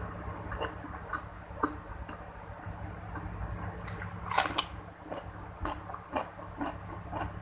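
Close-up eating sounds: a run of short, irregular crunches and chewing of crisp food, with one loud crunch about four and a half seconds in.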